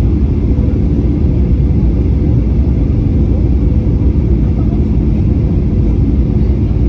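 Airliner cabin noise on approach: a steady, loud low rumble from the engines and the airflow around the fuselage, with a faint steady hum running through it.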